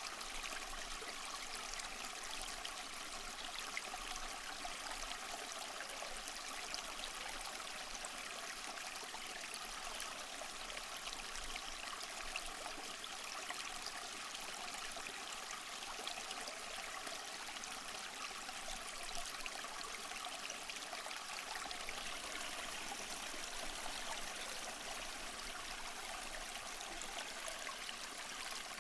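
Small waterfall over mossy rocks: water splashing and trickling in a steady, even rush, mostly high and hissy with little low rumble.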